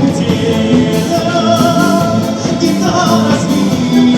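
Russian folk instrument orchestra playing an instrumental passage of the song; a male singer comes in near the end.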